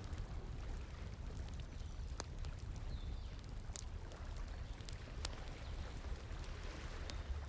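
Wood fire crackling, with a few sharp pops scattered through, over the steady rush of flowing water.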